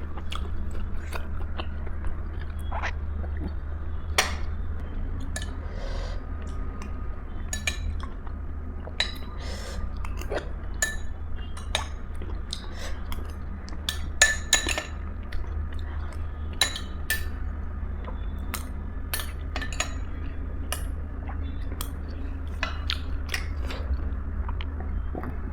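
Spoon or cutlery clinking against a dish with chewing sounds while eating: many scattered sharp clicks over a steady low hum.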